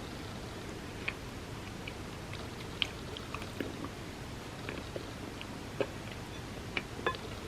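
Close-up chewing of soft, milk-soaked chocolate cake, with scattered small wet mouth clicks over a steady background hiss.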